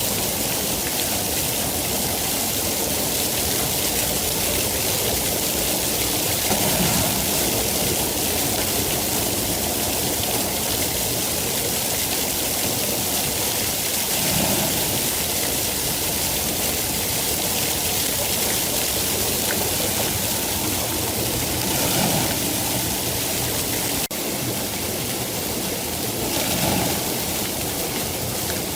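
Steady heavy rain, a dense even hiss with soft lower swells every seven or eight seconds. About 24 seconds in the level drops suddenly by a step.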